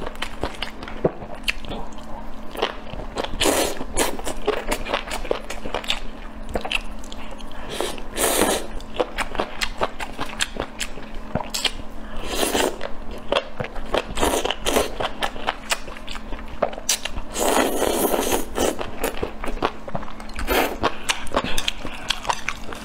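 Close-miked eating sounds: biting and chewing grilled squid skewers and noodles, with many small wet clicks and smacks. A few louder noisy bursts break in, the longest about three-quarters of the way through.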